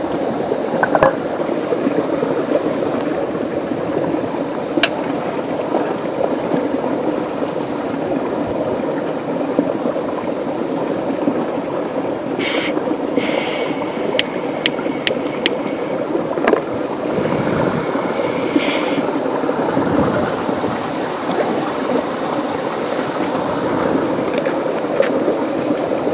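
Steady rush of running water, with a short run of sharp clicks about halfway through.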